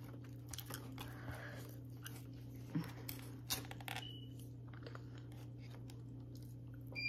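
Faint chewing of a cinnamon roll, with a few light clicks, over a steady low hum.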